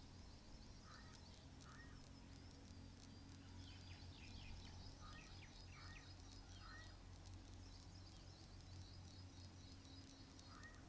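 Near silence: a low steady hum of room tone with faint, distant bird chirps, short calls coming in twos and threes about a second in and again around the middle.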